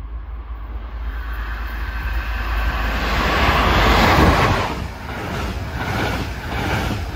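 Diesel-hauled train of red double-deck coaches passing close by. The rush of wheels on rail builds to a peak about four seconds in, then gives way to the rhythmic clatter of the coaches' wheelsets as they go by.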